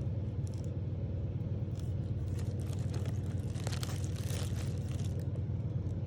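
Car engine idling steadily, a low hum heard from inside the cabin. Rustling and crackling of handling runs over it for a few seconds in the middle.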